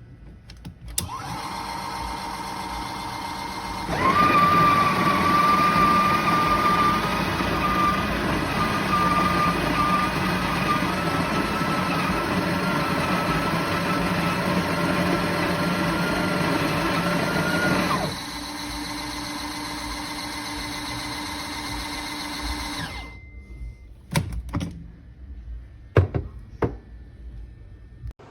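Espresso machine running: a motor hum that grows much louder about four seconds in, with a steady whine, then drops back to a lower hum and stops a few seconds later. A few sharp clicks and knocks follow.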